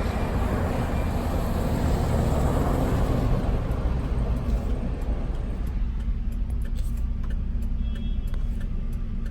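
Cab noise inside a moving 2010 Ford Ranger pickup: a steady low engine and road rumble, with a louder rushing noise in the first half that dies down after about five seconds.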